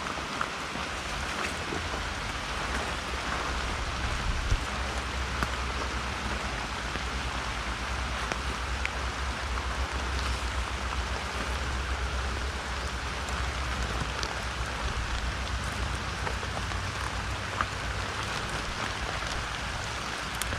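Steady rain falling, with scattered drops ticking close by and a low rumble underneath.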